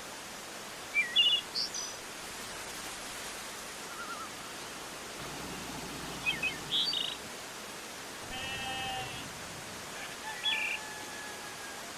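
Birds chirping in short, scattered calls over a steady outdoor hiss, with one longer, steadier call a little past the middle.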